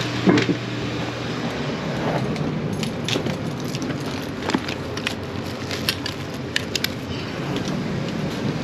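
Scattered metal clicks and clinks of hand tools tightening a loose toilet tank's bolts, with a few clicks close together near the end, over a steady background hiss and hum.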